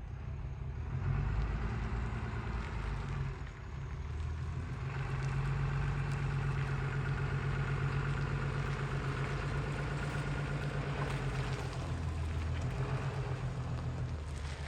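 A vehicle engine running steadily, a low even hum that grows louder about a second in and again about five seconds in.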